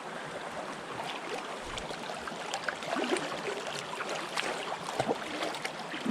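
Running river water, a steady rushing hiss dotted with small irregular splashes and clicks.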